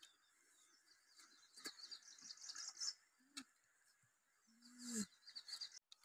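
Faint outdoor background of small birds chirping in short repeated high trills, with a few light clicks and a brief low hum-like voice sound about five seconds in.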